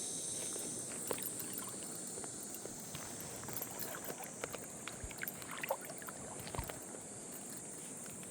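Small irregular splashes and sloshes of water, as of legs wading through a shallow stream, over a steady high-pitched insect chorus.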